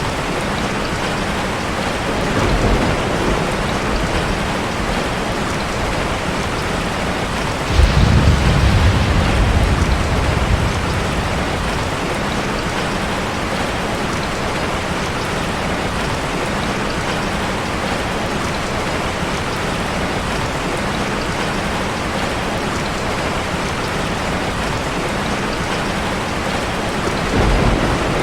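Steady rush of cascading waterfall water, an even noise throughout. Low rumbles come three times, the loudest about 8 s in and lasting a couple of seconds.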